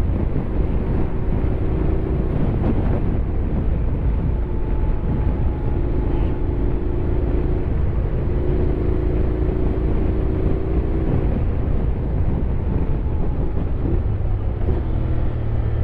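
Honda X-ADV 750 parallel-twin engine running under way in a steady, loud ride sound. The engine note steps up near the end.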